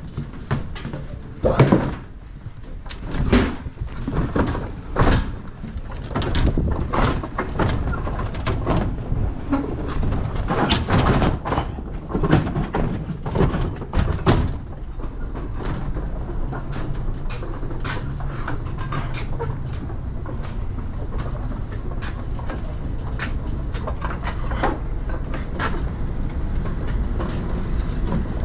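Clatter and knocks of doors and cargo being handled for about the first half, then a steady low vehicle rumble.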